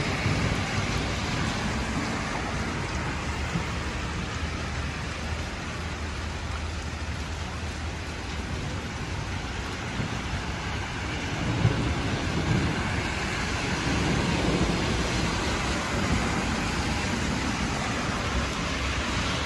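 Heavy rain falling on a paved street, a steady hiss, with a low rumble swelling about halfway through.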